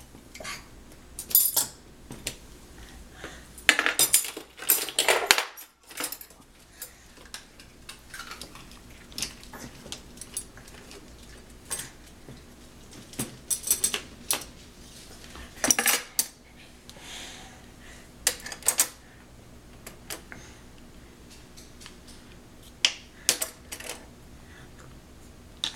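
Dishes and cutlery clinking and clattering in irregular bursts as they are taken out of a dishwasher and put away, with the loudest clatter about four to five seconds in.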